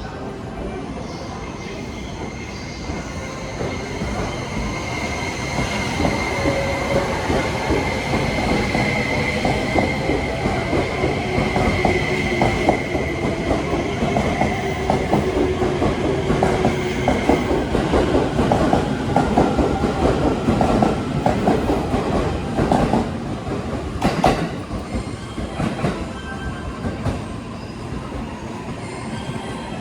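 E261 series electric multiple unit pulling out of a station. A steady high whine and lower motor tones build as the train gathers speed. Then wheels clatter over rail joints as the cars pass, with one sharp click near the end.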